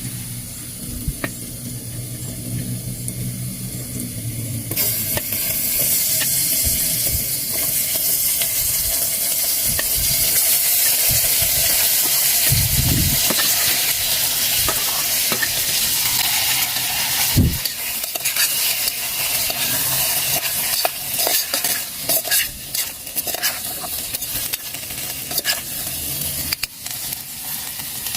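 Food frying in a pan: a loud sizzle starts suddenly about five seconds in and keeps going. Utensil scrapes and clicks against the pan come through as the food is stirred.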